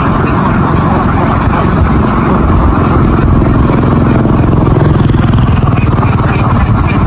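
A vehicle engine running steadily, loud and close, with a low rumble throughout.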